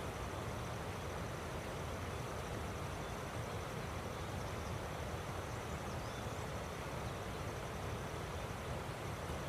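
Steady rushing of a river, with a faint, high, pulsing insect trill running over it.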